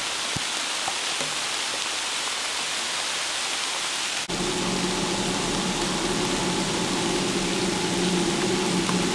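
Steady hiss of rain falling on leaves and ground. From about four seconds in, after a brief dropout, a low steady engine drone with a few held tones joins underneath.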